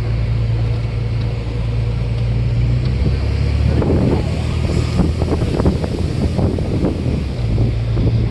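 Tour bus engine running with a steady low hum, then wind buffeting the microphone in gusts for several seconds in the middle before the engine hum takes over again near the end.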